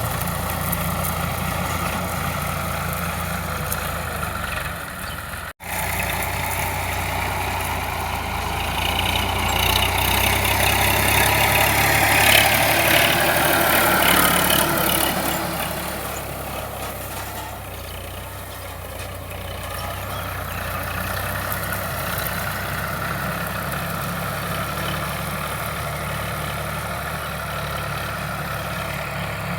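Sonalika DI 745 tractor's diesel engine running steadily. It gets louder for several seconds in the middle, then settles back to a steady running note.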